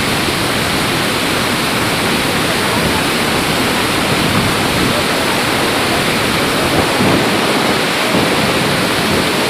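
Ouzoud Falls' cascade, a steady, loud rush of falling water with no breaks.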